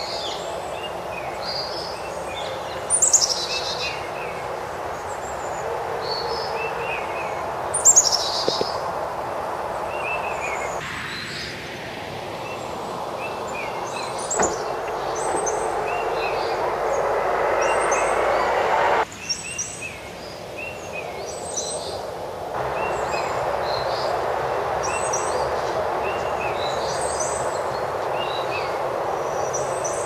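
Birds chirping and calling, with two louder, sharply falling calls about three and eight seconds in, over a steady background rush that changes abruptly a few times.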